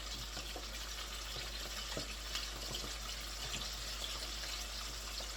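Hot oil sizzling steadily around flour-coated chicken pieces frying in a pan, with a few faint crackles.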